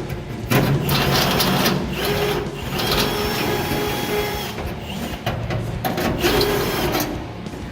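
Electric drill running in three bursts of about one and a half seconds each, with a motor whine, drilling holes to mount a brake pedal assembly.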